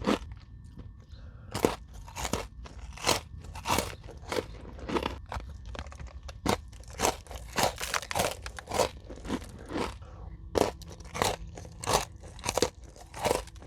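A person chewing crunchy granola bars with yogurt and whipped cream: a steady run of short, sharp crunches, about two a second.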